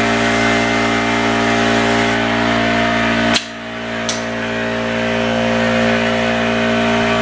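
Paint-spraying rig's electric motor running steadily under a hiss of spraying. A sharp click about a third of the way in briefly cuts the hiss, and a smaller click follows before it builds back.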